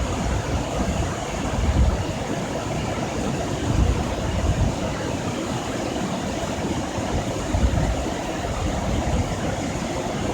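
Waterfall, about 10 m high and 20 m wide, with a steady rush of falling water and low, irregular surges of wind on the microphone.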